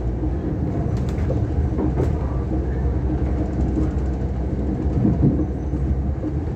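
Steady low rumble of an Irish Rail 22000 Class diesel railcar heard from inside the passenger coach as it runs out of the station: underfloor engine and wheels on the rails, with a couple of faint clicks about one and two seconds in.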